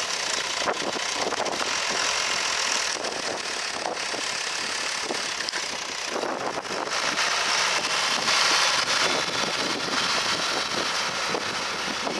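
John Deere 3350 four-wheel-drive tractor's diesel engine running steadily while pulling a three-furrow reversible plough, dipping slightly about halfway and picking up again.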